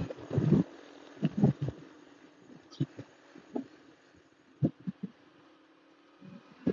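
Muffled, irregular low thumps and gusts of wind on the microphone of a camera riding along on a bicycle. They come in short knocks, several in the first two seconds and a few more after, and fade to near quiet about two-thirds through.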